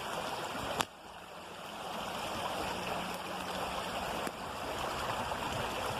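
Steady rushing of water flowing in a small creek, with a sharp click about a second in, after which the water sound drops and slowly returns.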